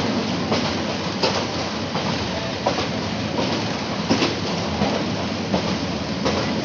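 Egarosindur Godhuli passenger train running at speed, heard from inside a carriage by the open window: a steady rush of wheel and rail noise with irregular clicks and knocks of the wheels over the track.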